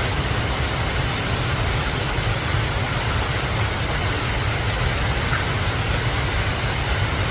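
Steady rushing noise, even and unbroken, with a heavy low rumble underneath.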